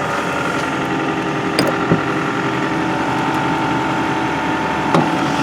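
2007 Toyota Camry's 2.4-litre inline-four idling steadily shortly after a cold start in sub-zero weather. A few short clicks come about one and a half seconds in and again near the end.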